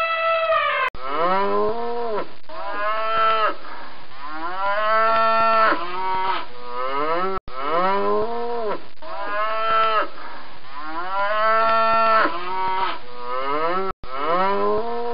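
Cow mooing over and over: a series of long moos, each rising and then falling in pitch. In the first second, before the mooing starts, an elephant's trumpet call ends.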